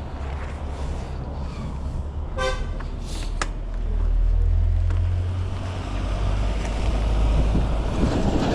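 Road traffic with a low, steady rumble that swells about four seconds in, and a short vehicle horn toot about two and a half seconds in, followed by a second brief toot.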